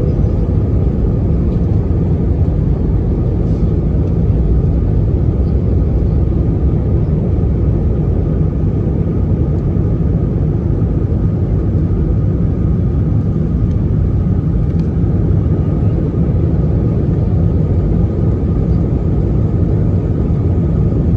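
Steady, loud rumble of an Airbus A319's engines and airflow heard from inside the passenger cabin, with no change in pitch or level.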